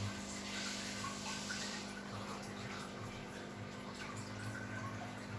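Goldfish aquarium's water trickling and bubbling over a steady electrical hum, the sound of its filter or pump running.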